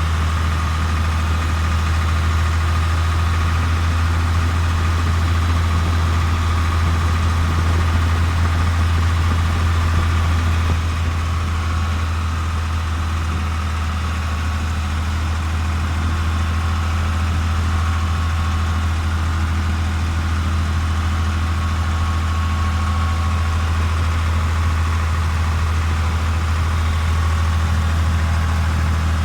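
Tractor engine running steadily, with a slight easing of the level about a third of the way in.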